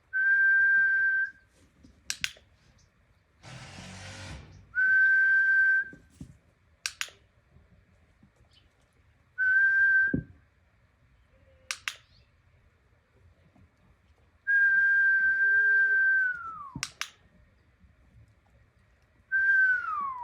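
Dog-training whistle blown in five long steady tones as the down cue, the last two sliding down in pitch as they end, with a sharp click after each blast.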